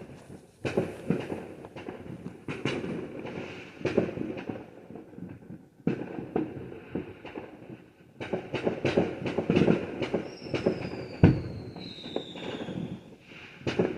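Fireworks going off: a run of sharp bangs and crackling, with a dense volley in the second half and one heavy boom about eleven seconds in. A thin whistle falls slowly in pitch over the same stretch.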